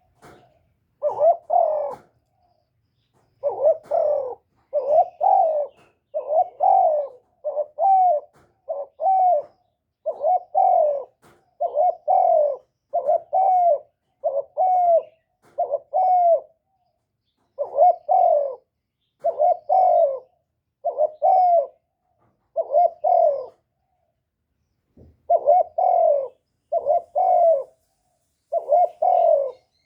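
Spotted dove (cu gáy) cooing: a long run of short, low coos, mostly in pairs and threes, each one dipping in pitch at its end. There are brief pauses near the start and about two-thirds of the way through.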